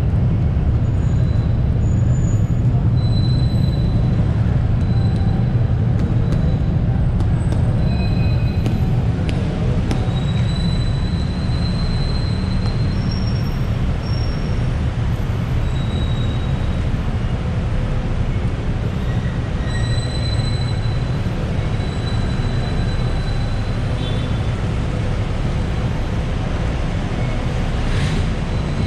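Loud, steady low rumble of heavy street traffic, with short high-pitched squeals scattered throughout.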